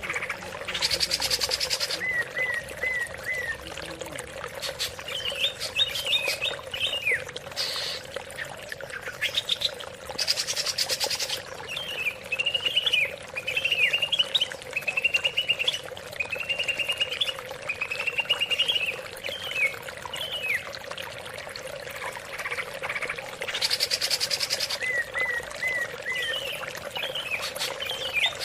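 Greater green leafbird (cucak ijo) singing a varied run of quick whistled phrases, broken by a few short harsh rasping bursts, over a steady trickle of running water.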